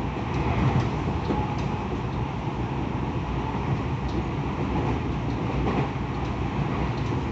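Tokyo Metro 10000 series electric train running at speed, heard from inside the car: a steady rumble of wheels on rail with faint light clicks.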